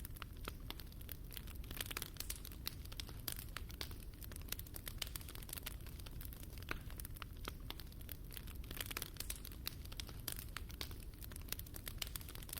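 Wood fire burning in a fireplace, crackling with many irregular quick pops and snaps over a steady low rumble of the flames.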